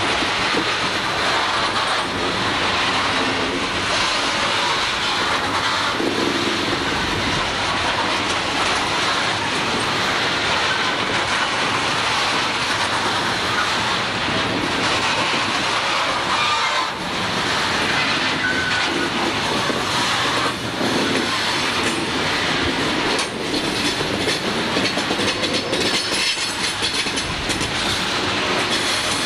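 CSX freight train's hopper cars rolling past close by: the steady, unbroken noise of steel wheels running on the rails.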